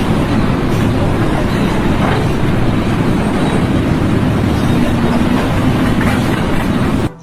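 A heavy engine running loudly and steadily, cut off abruptly near the end.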